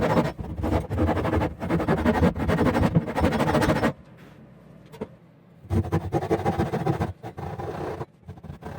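Japanese ryoba pull saw cutting through the wooden board of an old chest, with a rhythmic rasp of stroke after stroke. The strokes pause for a moment about four seconds in, then carry on a little quieter.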